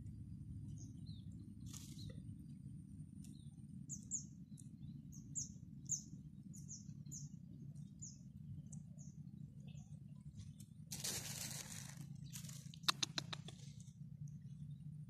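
A small bird chirping, short high notes repeated about twice a second for several seconds, over a steady low rumble of outdoor background noise. Near the end there is a brief rustle and then a quick run of sharp clicks, the loudest sound here.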